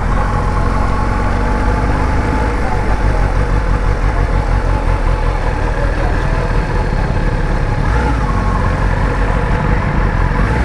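Kawasaki ZX-10R's inline-four engine idling steadily while stopped for fuel.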